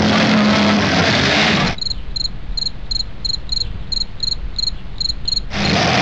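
Demolition derby cars' engines running loud, cut off abruptly after under two seconds by a quieter stretch where crickets chirp about three times a second over a low rumble; a little after five seconds in, the loud engine noise cuts back in.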